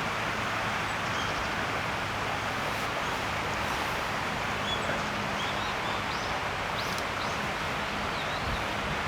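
Steady outdoor rushing noise, with scattered short high bird chirps over it from about a third of the way in.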